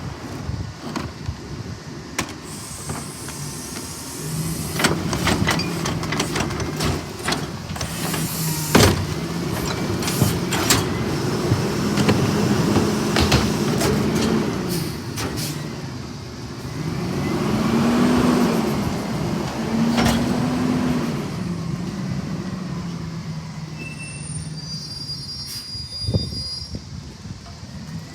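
CNG garbage truck engine revving up and settling back several times as the McNeilus rear loader's hydraulic packer cycles, with frequent metallic clanks and knocks.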